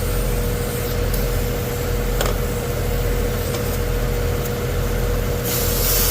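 Goodman AC condenser fan motor running with a steady hum and a steady whine, the compressor not running. About five and a half seconds in, a loud hiss of refrigerant escaping under pressure starts.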